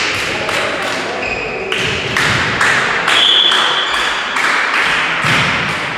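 A quick, fairly regular series of sharp taps or knocks, about two to three a second.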